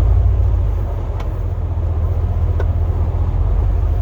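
Snow plow pickup truck driving: a steady low engine and road rumble, with two faint clicks about a second and two and a half seconds in.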